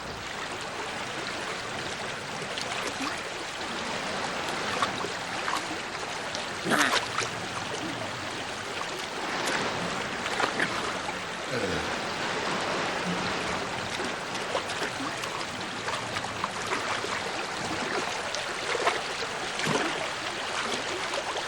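Steady rush of a shallow salmon river running over its bed, broken by a few brief, sharper sounds.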